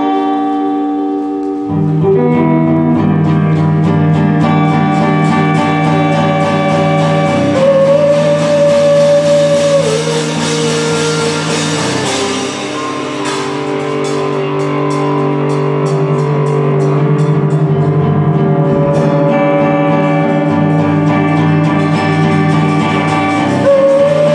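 Live band playing an instrumental passage with no singing: plucked guitars holding sustained notes, a low bass line that comes in about two seconds in, and a steady rhythm of drum strikes.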